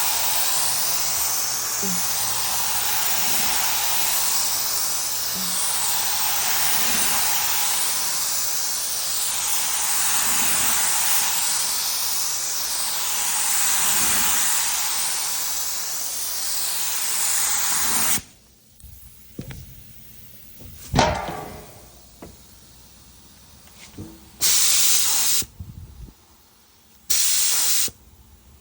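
Air-fed paint spray gun spraying clear coat: a steady hiss that swells and fades about every two seconds, then stops abruptly about two-thirds through. After a single knock, the gun gives a few short bursts near the end.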